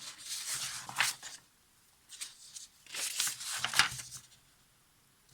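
Paper pages of a manual being leafed through and rustled, in two spells with a short pause between.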